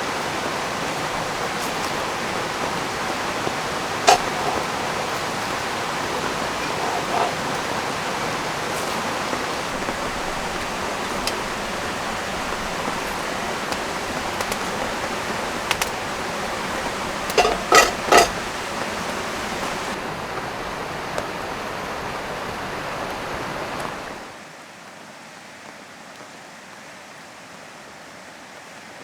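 Steady rushing of a flowing river, with a few sharp knocks, three of them close together about two-thirds of the way through. About 24 s in, the rush drops suddenly to a much quieter level.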